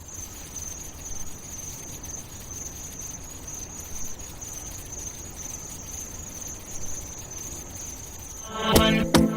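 Steady high-pitched chirring like crickets over a low hiss. Near the end, a song's intro cuts in with sharp plucked chords.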